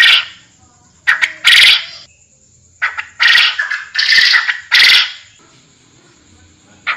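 Forest quail (puyuh hutan) calling: loud, harsh repeated notes in short groups, a pair about a second in and then a run of four.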